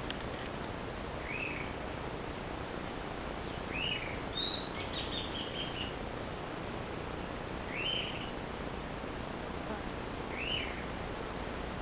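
Steady outdoor background noise with a small bird calling: short chirps every two to three seconds, and a quick run of notes about four seconds in.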